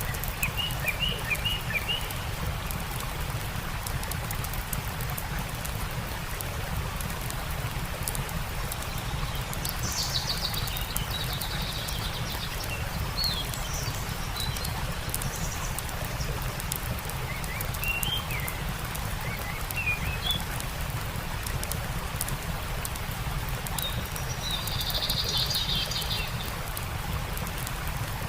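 Steady rushing of a stream mixed with the fine crackle of a campfire, while small birds chirp in short bursts several times.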